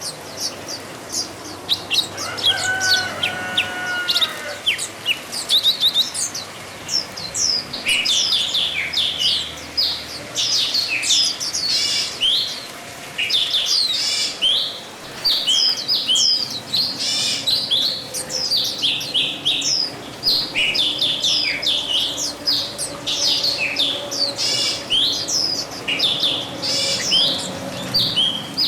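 Small birds chirping and twittering continuously, a dense run of quick downward-sliding chirps, with a short steady-pitched call about two to four seconds in.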